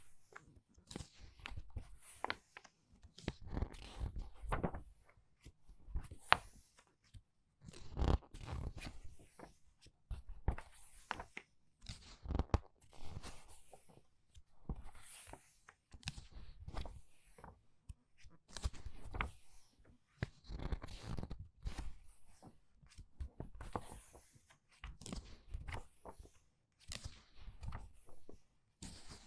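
Book pages being turned quickly one after another, about once a second, each turn a short papery rustle and flap.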